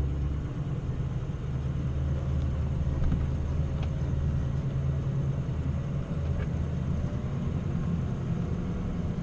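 Ford F-250 pickup's engine running steadily as a low drone, with a few faint clicks over it.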